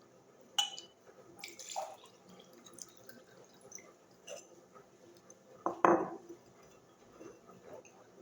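A glass holding liquid being handled: scattered light clicks and small knocks, with one louder knock about six seconds in.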